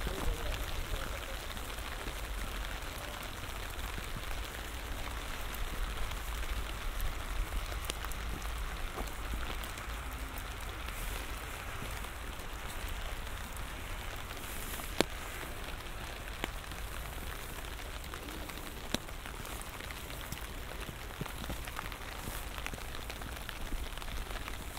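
Light rain falling in a steady, even patter, with a couple of sharper single drop ticks about fifteen and nineteen seconds in and a low rumble underneath.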